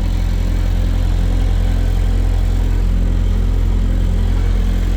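Bobcat T590 compact track loader's Kubota V2607 four-cylinder diesel running at a steady speed with an even drone, on a cold engine that has not been warmed up.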